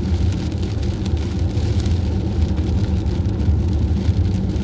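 Steady engine drone and road noise of a vehicle cruising along a highway, a continuous low rumble with no change in speed.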